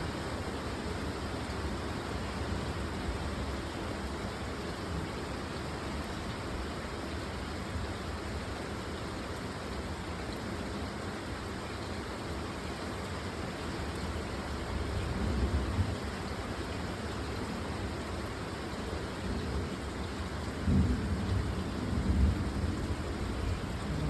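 Thunderstorm: a steady hiss of heavy rain, with low rumbling swells about two-thirds of the way through and again near the end.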